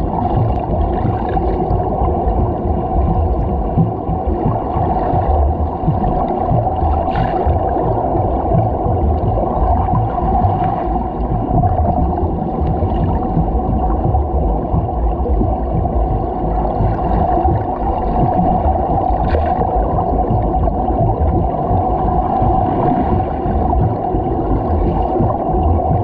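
Water rushing and sloshing around a GoPro camera worn while swimming laps. The sound is a steady, muffled churn of the swimmer's strokes and kicks through the water.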